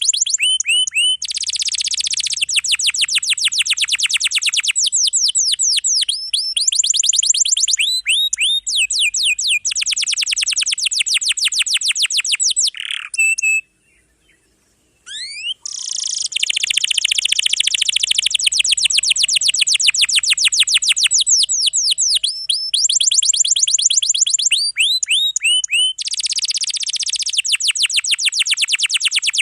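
Canary singing continuously in long, rapid rolls and trills of high repeated notes, with a brief pause about halfway through.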